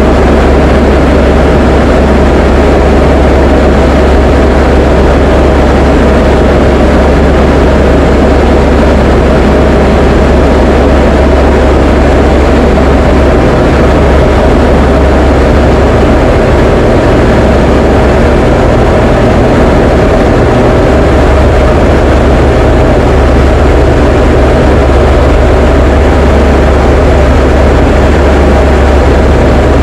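Diamond DA20 light aircraft's piston engine and propeller droning steadily in flight, a loud, unchanging cockpit drone with a deep hum.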